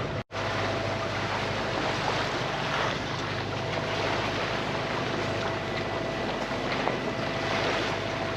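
Sailboat underway: a steady rush of water along the hull mixed with wind buffeting the microphone, with a faint steady hum underneath.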